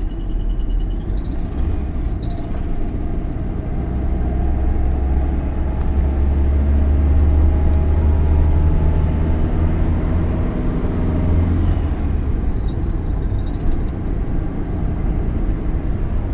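GAZelle Business van running with a steady low rumble, its engine note climbing slowly through the middle. A thin high-pitched whistle wavers up and down in pitch near the start and again about three-quarters of the way through; its cause is unknown.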